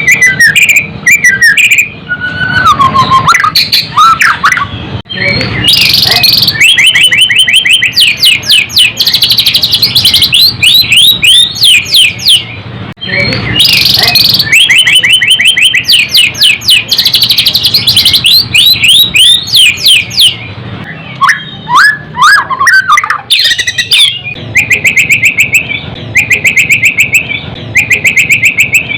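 White-rumped shama (murai batu) singing loudly and continuously: long fast runs of rapid repeated notes, broken by sliding whistled phrases.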